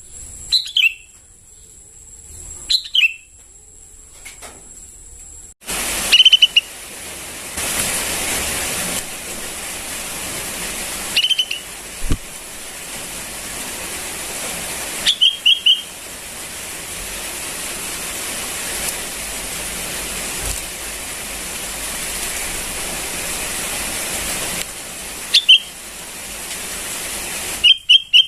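Young sooty-headed bulbul calling: short, falling chirps repeated every one to three seconds, over a steady hiss that starts about six seconds in and stops near the end.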